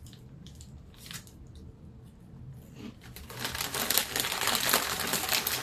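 Snack bag crinkling as it is handled: a few faint clicks at first, then a dense, crackly rustle from about three seconds in.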